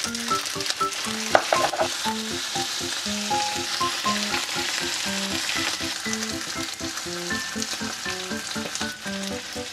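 Cold cooked rice and canned tuna sizzling in a nonstick frying pan, stirred and scraped with a plastic turner. There is a sharp clink about a second in, and light background music throughout.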